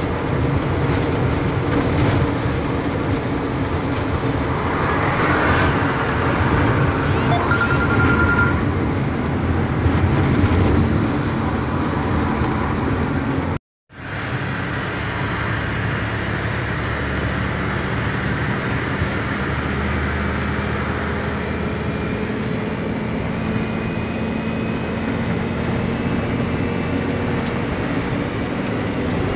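Ford Cargo 2628 dump truck's diesel engine running steadily, heard from inside the cab while driving, with a brief dropout about halfway through.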